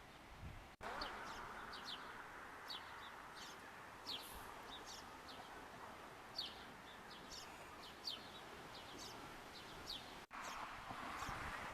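Sparrows chirping repeatedly in short, quick notes over a steady rush of wind.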